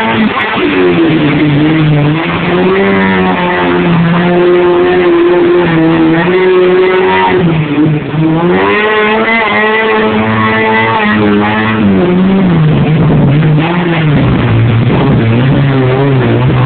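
A Suzuki 4x4's engine revving hard and unevenly as it fights its way through a deep mud hole. The pitch rises and falls throughout, dropping briefly about halfway before climbing again.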